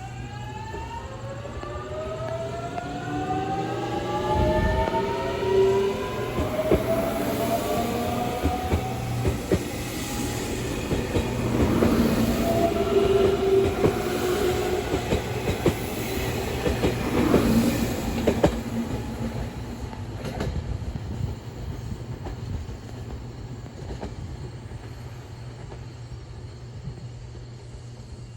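Electric train accelerating, its traction motors whining in a stack of tones that climb steadily in pitch. Wheels clatter over rail joints in the middle as the sound swells, then the noise fades away.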